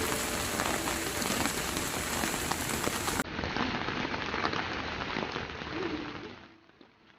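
Rain falling on surfaces, a dense hiss of many drops, fading down near the end.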